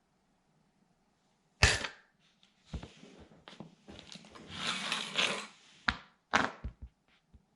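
Plastic toy truck being crushed under a sandal: a sharp crack, then a few seconds of crackling and grinding as the plastic breaks and scrapes on the floor, then several more short cracks near the end.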